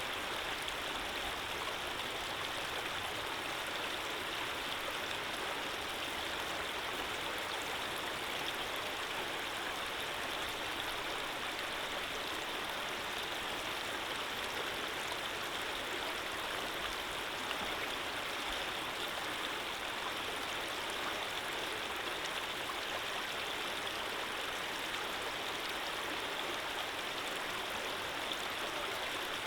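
Running water flowing steadily, like a gentle stream: an even, unchanging wash of water noise.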